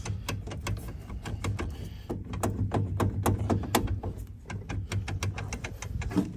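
Rapid, irregular clicking and clunking of a 1951 Studebaker's column-mounted three-speed shift lever being worked back and forth, its grease-packed linkage stuck and refusing to go into neutral, over a steady low hum.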